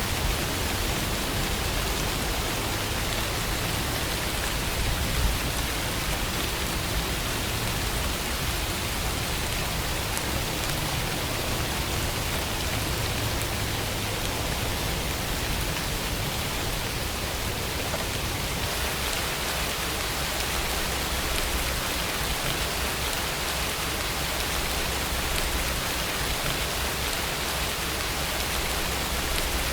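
Steady rainfall: an even hiss of rain falling on surfaces, with a soft low rumble underneath.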